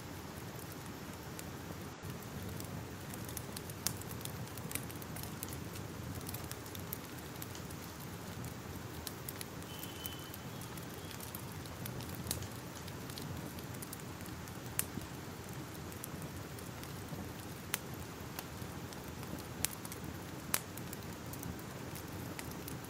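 Fire crackling: a steady hiss and rustle broken by irregular sharp pops, with a few louder snaps scattered through.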